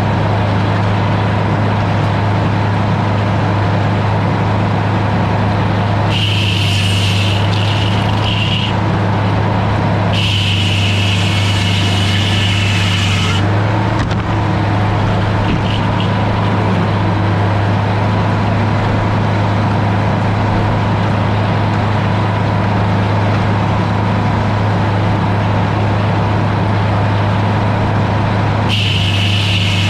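Sawmill engine running steadily, with a higher-pitched whine coming in three times for a few seconds each.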